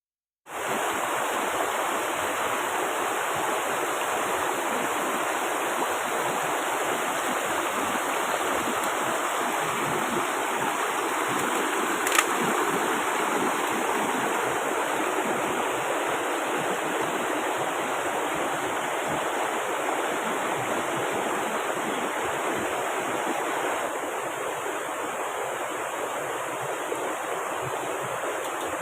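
Steady wash of heavy rain falling together with a rushing river. It cuts in after a moment of silence and holds at a steady level, with one sharp click about twelve seconds in.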